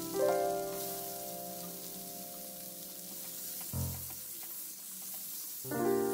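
Long beans, chilies and garlic sizzling in hot oil in a wok as they are stir-fried until wilted. Background music plays over it, fading away in the middle and coming back near the end.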